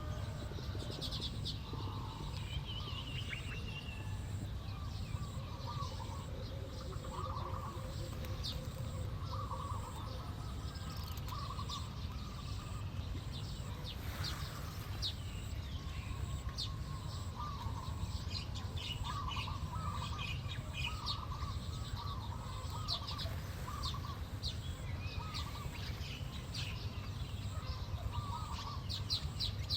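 Small birds chirping and calling, many quick high chirps with repeated lower notes in between, over a steady low background rumble.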